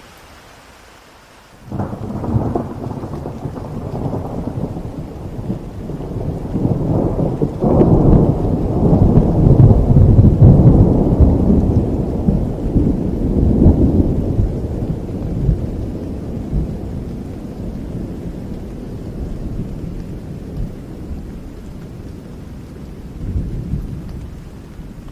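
Thunder over steady rain: a rumble breaks in suddenly about two seconds in, swells to its loudest in the middle and slowly rolls away, with a smaller rumble near the end.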